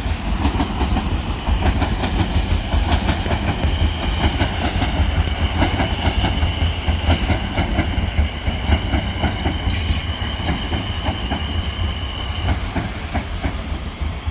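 Class 450 electric multiple unit running into the platform, its wheels clattering over rail joints and points over a steady low rumble. A steady high whine sets in a couple of seconds in and stops a couple of seconds before the end.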